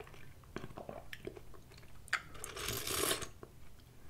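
Close-miked mouth sounds of a person eating chunky tomato soup: soft chewing with small wet clicks, and a longer soft noisy sound about two to three seconds in.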